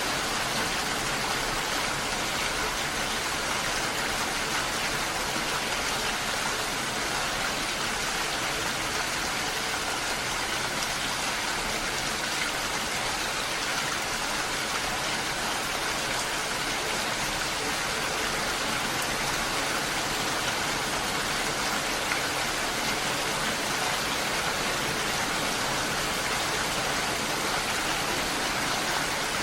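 Steady, even rushing of water that does not change.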